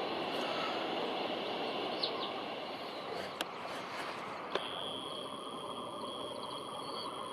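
Steady outdoor background hiss with a few faint, short bird chirps about two seconds in. A sharp click comes near the middle, and at about four and a half seconds the background changes abruptly, after which a thin steady high tone runs on.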